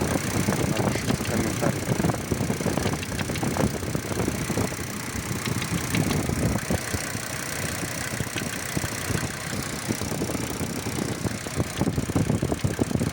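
SsangYong Musso engine idling with an irregular knocking running through it. The owner says this knock comes and goes, and that the engine is newly replaced.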